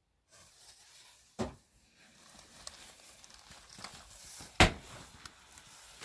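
Fireworks going off: three sharp bangs, the last one the loudest and right at the end, with crackling and hissing between the second and third.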